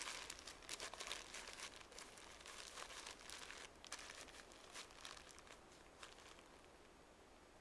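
Paper being crumpled and torn by hand as tinder for a campfire: a dense run of crinkling rustles that thins out and stops about six seconds in.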